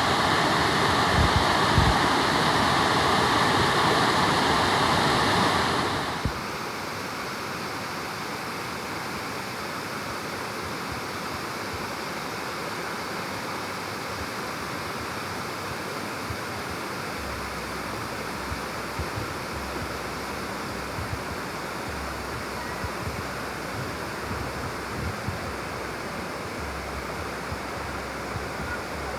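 Waterfall rushing steadily. It is louder for the first six seconds, then drops suddenly to a quieter, even rush.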